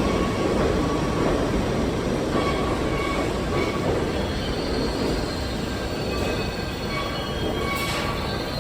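R68 subway train running on the rails with a steady rumble, joined from about two and a half seconds in by thin, high wheel squeal that runs on to the end.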